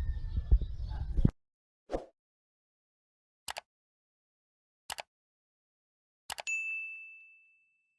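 Low ambient noise cuts off abruptly about a second in, giving way to dead silence broken by a few isolated short clicks. Near the end a double click is followed by a bright ding that rings and fades over about a second.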